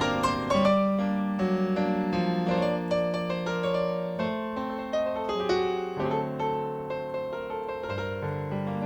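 Solo keyboard with a piano sound playing an instrumental tango interlude: a melody over a moving bass line, with many separately struck notes.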